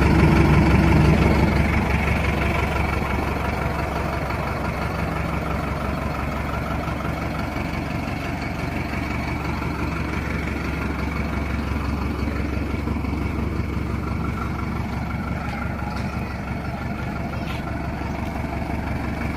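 Truck diesel engine idling steadily, louder for the first second or two and then settling to a lower, even level.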